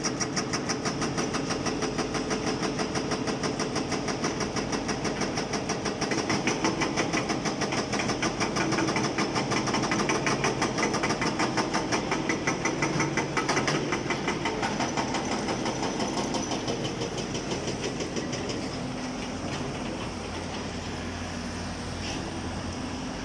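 Excavator-mounted hydraulic rock breaker hammering on stony ground in rapid, regular blows over the diesel engine's running, while chipping through rock. The hammering dies away about 17 seconds in, leaving the engine running steadily.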